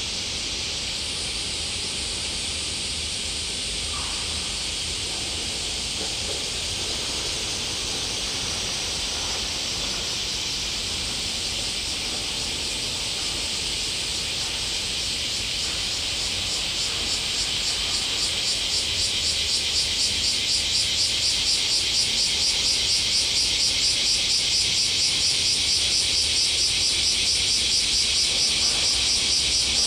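Cicadas buzzing in a high, steady chorus that swells louder about halfway through and turns into a fast, even pulsing, over a faint low rumble.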